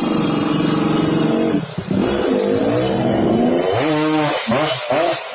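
Yamaha F1ZR's single-cylinder two-stroke engine with a modified exhaust, revving. It is held steady for about a second and a half, drops, then is blipped up and down several times, with a last sharp rev about four seconds in that falls back.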